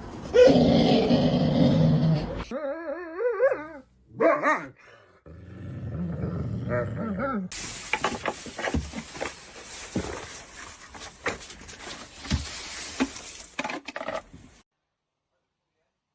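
Dog vocalising: growling and barking, with a wavering, whine-like cry a few seconds in, then a busier stretch of short sharp sounds that cuts off near the end.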